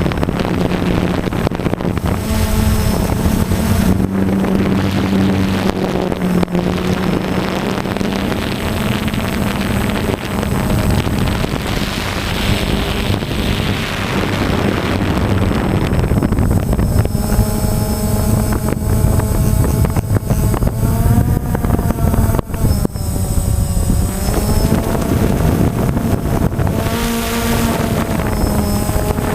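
DJI Phantom quadcopter's motors and propellers running with a steady buzzing hum and wind rush, several whining tones rising and falling as the motor speeds change in flight, most markedly in the second half.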